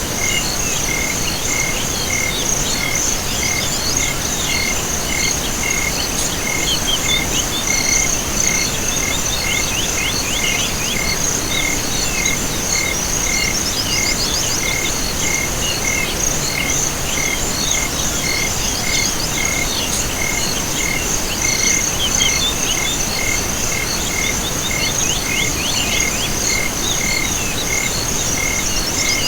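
Night chorus of crickets and other insects with frogs calling: a continuous high trill, a regular chirp repeating about two to three times a second, and scattered quick falling chirps over it, all at a steady level.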